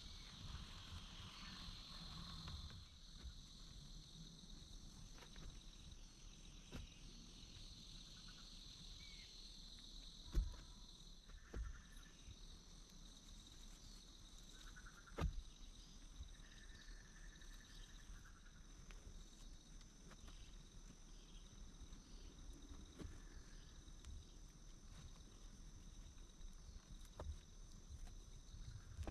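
Faint steady drone of insects with a few short chirps of frogs or birds, broken by a few light knocks about a third and half of the way through.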